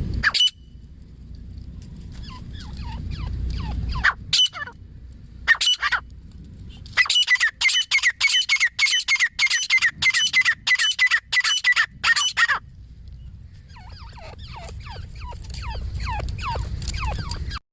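Francolins (teetar) and their young calling: many short falling chirps, with a run of loud, high calls repeated about twice a second for some five seconds in the middle.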